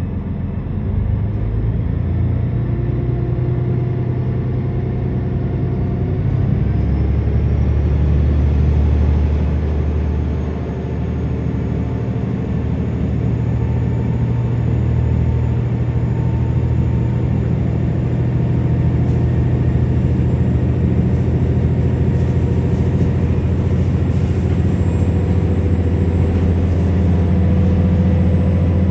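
KiHa 47 diesel railcar's underfloor diesel engine working under load as the train pulls away from a station: a heavy, steady low drone with a faint high whine that rises as the train gathers speed. Heard from inside the passenger car.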